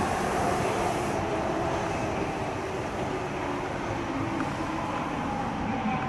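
Odakyu commuter train running through an underground tunnel, heard from inside the car: a steady rumble of wheels and running gear with a faint motor whine that rises slightly near the end.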